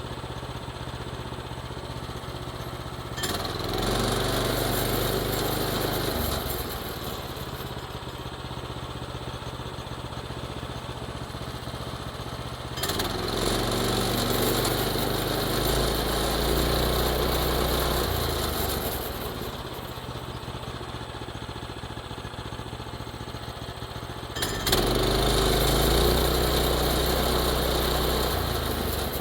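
Small engine idling steadily, run up to a higher speed three times for a few seconds each, each run-up starting with a sharp click.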